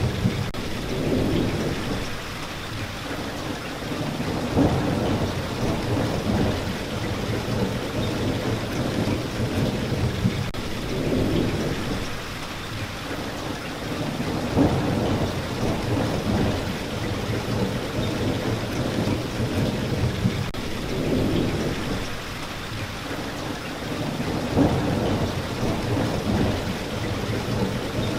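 Steady heavy rain with low rolling rumbles of thunder swelling and fading; the same rumbles and sharp peaks recur about every ten seconds.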